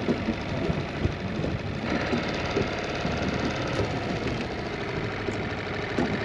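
A boat's outboard motor running steadily at slow trolling speed; the sound brightens slightly about two seconds in.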